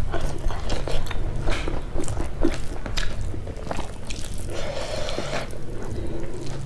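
Close-miked chewing with wet mouth clicks and smacks, while fingers mix and squish rice and curry on a plate. The sound is a string of short irregular clicks, with a softer rustling patch about five seconds in.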